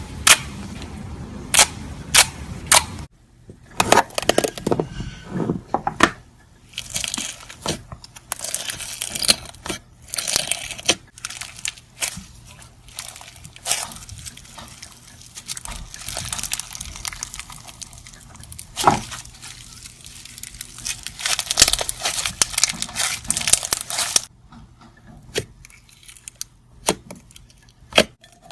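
Slime being squeezed, stretched and poked by hand, with many sharp clicking pops and stretches of crackling. It quiets down over the last few seconds.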